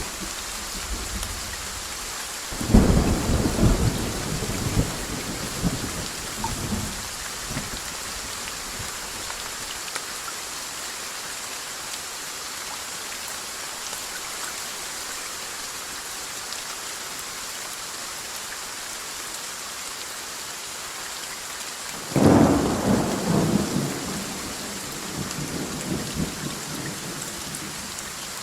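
Steady rain hiss with two peals of thunder: a sudden crack and rolling rumble about three seconds in that dies away over several seconds, and a second one about twenty-two seconds in.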